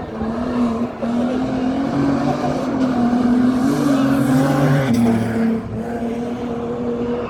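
Holden Commodore V8 rally car engine running hard under throttle, its pitch wavering up and down, then easing to a lower note about five seconds in.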